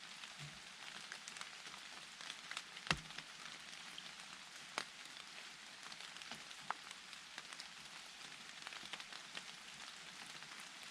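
Steady light rain falling in a forest, a soft hiss of many small drop-ticks on leaves and ground. A few single drops strike louder, about 3, 5 and 7 seconds in.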